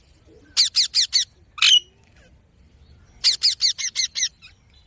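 Indian ringneck parakeet giving runs of short, sharp, high calls: four quick notes, a single longer one, then a run of about seven.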